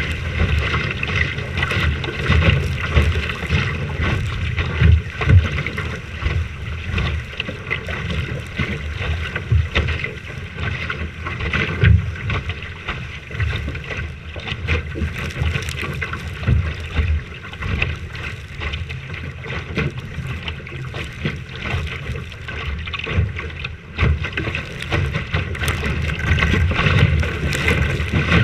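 Strong wind buffeting the microphone aboard a sailing boat in gusts, over a steady rush of water.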